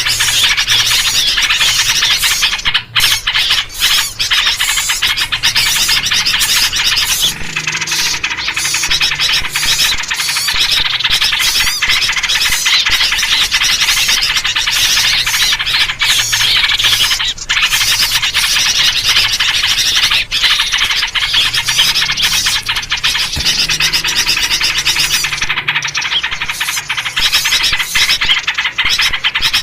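A dense, unbroken chorus of agitated small birds chattering and calling over one another, with yellow-vented bulbul (trucuk) calls among them. This is the noisy-flock commotion that bird trappers play to lure wild birds in.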